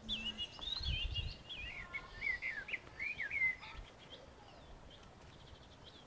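A songbird singing one long warbling phrase of whistled notes that rise and fall, ending after about three and a half seconds, followed by a few faint short chirps. A brief low rumble is heard about a second in.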